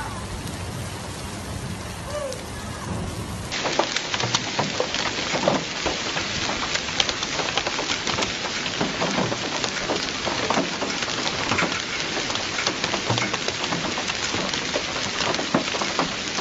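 A hailstorm with heavy rain: a steady hiss of falling rain, which turns louder and denser about three and a half seconds in, thick with the sharp hits of hailstones striking hard surfaces.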